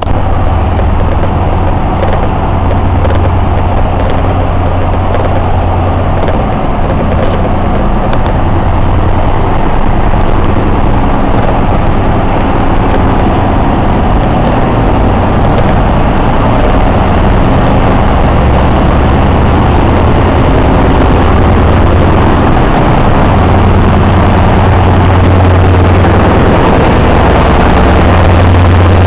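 MÁV M41 diesel-hydraulic locomotive's engine running with a loud, steady low drone that grows slightly louder towards the end.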